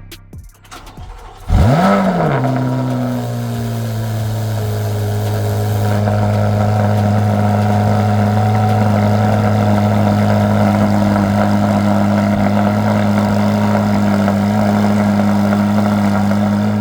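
2024 Corvette C8 Z06's 5.5-litre flat-plane-crank V8 starting up: it catches about a second and a half in with a quick rev flare, then settles into a steady fast idle to warm the oil.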